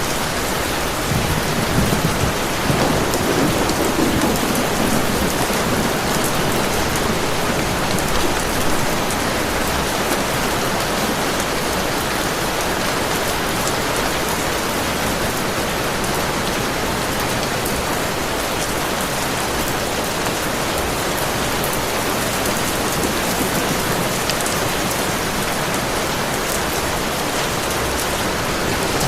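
Heavy rain falling steadily, with a low rumble of thunder that swells about a second in and fades within a few seconds.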